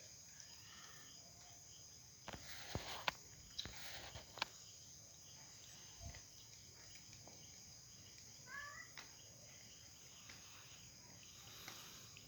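Faint, steady high-pitched trilling of crickets or other night insects, with a few sharp clicks about two to four seconds in.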